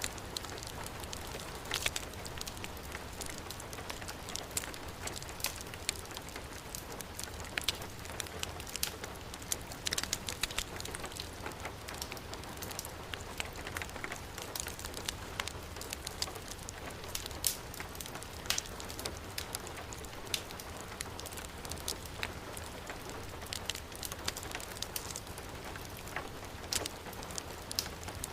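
Steady heavy rain, with irregular sharp crackles and pops from a burning wood fire scattered through it.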